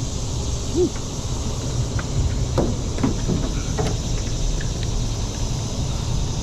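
Steady wind rumble on the microphone, with a few faint clicks and knocks.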